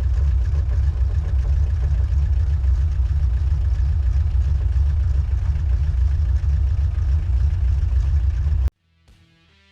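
Engine running steadily with a low rumble, cut off suddenly near the end.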